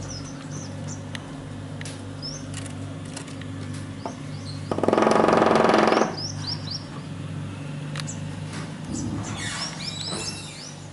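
Small birds chirping in short, high notes over a steady low hum. About five seconds in, a louder buzzy sound lasts just over a second.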